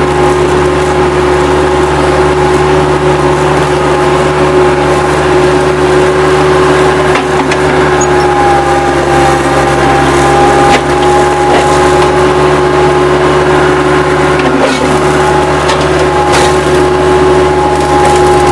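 Bobcat 763 skid-steer loader's diesel engine running steadily under a constant whine, with a few short knocks about seven, eleven and sixteen seconds in.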